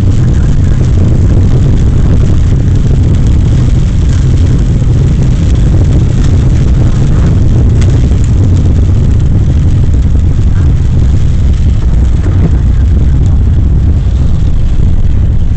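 Car driving, a loud steady rumble of engine and road noise heard from inside the cabin.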